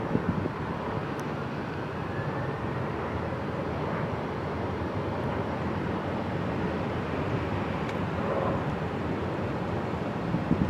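Steady aircraft engine noise at an airfield, an even rush with no sharp events.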